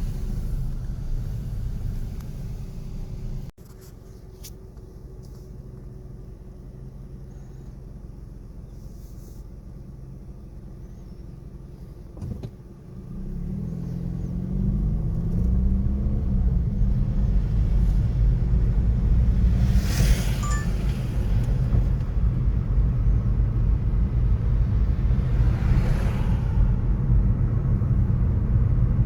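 City street traffic: a continuous low rumble of vehicle engines and tyres. It drops abruptly quieter a few seconds in. Just under halfway through, a vehicle's engine pulls away with a rising pitch and the rumble swells louder, with two brief hissing surges of cars passing close later on.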